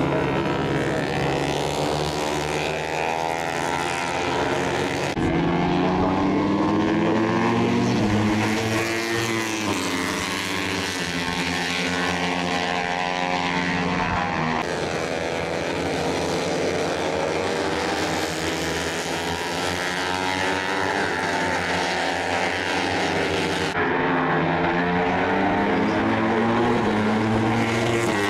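Several Moto3 racing motorcycles running their 250 cc single-cylinder four-stroke engines at high revs. The pitch rises and falls as they accelerate, change gear and pass, and the sound changes abruptly three times.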